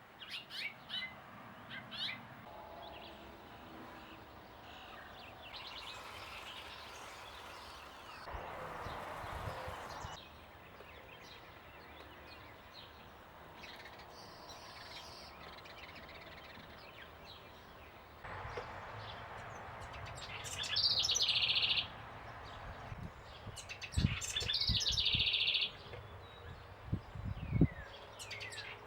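Small wild birds chirping and calling at a backyard bird feeder. In the second half come two louder calls of about a second each, and near the end there are a couple of low thumps.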